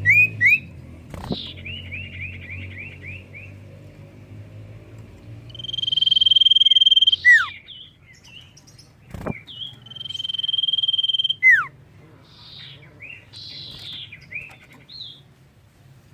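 Common iora (cipoh) singing: a quick run of rising chirps, then two long steady whistles, each ending in a sharp downward slur, followed by scattered short notes. A low hum sits under the first few seconds, and there are two brief clicks.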